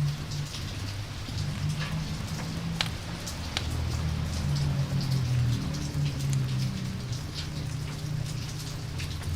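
Rain-and-campfire ambience: steady rain, with scattered sharp crackles and pops over a low, uneven rumble.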